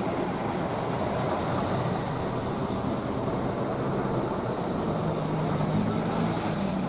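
Steady aircraft noise: an even rush of engine and air noise over a low hum.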